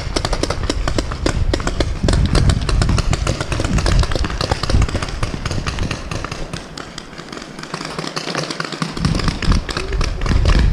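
Heavy, uneven footfalls and jostling close to a body-worn microphone, easing off for a few seconds in the second half. Many sharp pops of paintball markers firing run throughout.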